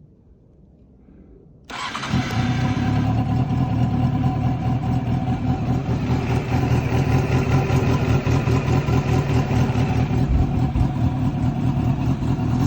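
Honda CB400 Super Four (NC39 Spec3) inline-four with a Pretty Racing short aftermarket muffler, starting abruptly about two seconds in and then idling steadily.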